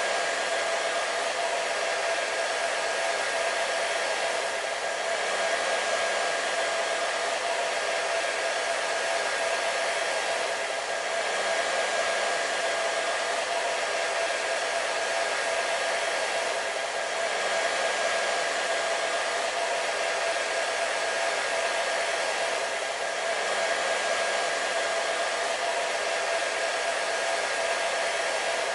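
Hair dryer running steadily: an even rushing hiss of blown air with a steady motor hum through it, swelling slightly about every six seconds as it loops.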